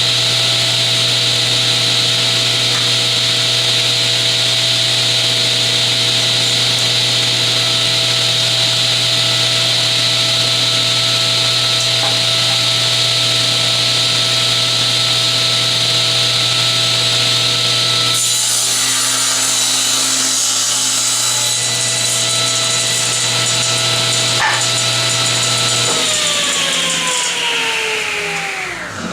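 General Model 350 table saw running at speed with a steady whine and hum, a board passing through the blade for several seconds past the middle; near the end the saw is switched off and the whine falls away as the blade spins down.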